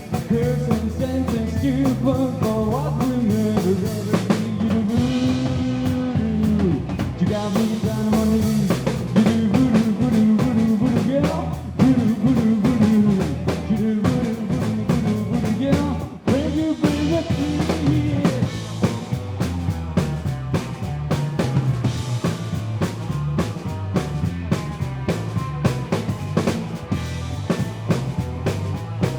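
A rock band playing live, drum kit keeping a steady beat under guitar and bass, with a pitched lead line bending up and down over it.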